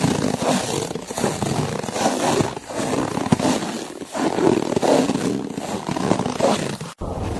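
Snow crunching underfoot in irregular, grinding steps, with a brief cut to silence near the end.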